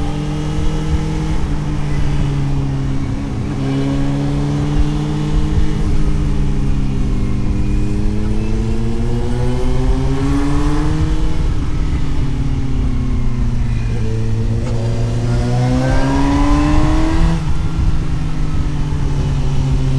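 Suzuki GSX-S750 inline-four engine heard onboard while riding, with wind noise: the revs climb, fall away, climb again and then drop sharply about three and a half seconds before the end.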